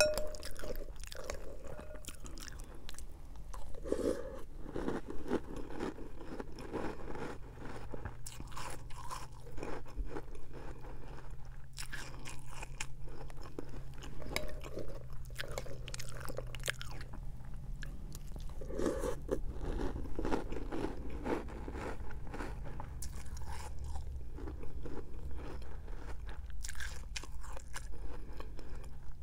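Chewing and crunching of Cap'n Crunch's Christmas Crunch cereal in milk, mouthful after mouthful.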